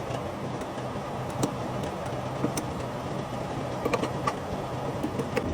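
Truck engine running steadily, with a few light clicks and taps over it.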